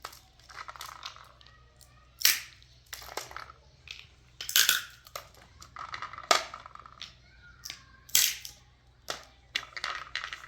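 Irregular sharp snaps and cracks, a loud one about every two seconds with smaller clicks between.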